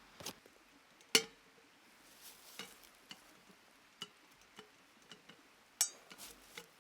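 Scattered light clicks and knocks, the sharpest about a second in and another near the end, some with a brief metallic ring.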